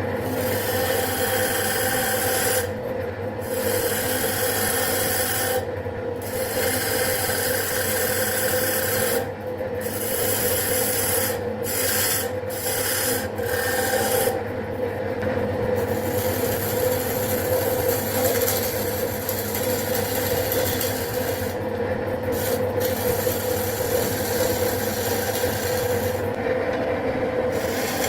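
Wood lathe running with a steady motor hum while a tool or abrasive scrapes against the spinning wood. The scraping breaks off for a moment about ten times as the tool is lifted away and set back.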